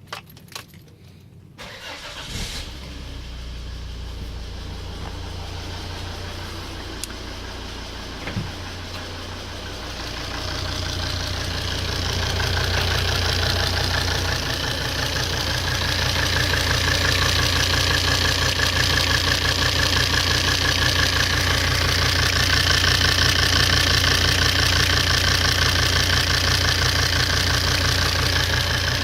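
Volvo D5 five-cylinder diesel engine starting about two seconds in, then idling with a steady, rhythmic clatter that grows louder after about ten seconds. It is running with the hold-down bolts of a seized injector loosened and carburettor cleaner poured around it, so the engine's running can work the injector free.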